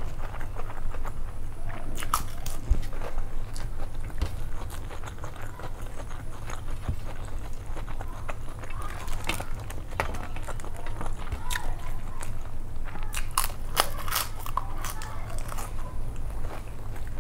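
Close-miked eating sounds: chewing and wet mouth noises with sharp crunchy clicks, a few about two seconds in, more around nine to ten seconds and a dense run around thirteen to fourteen seconds, over a steady low hum.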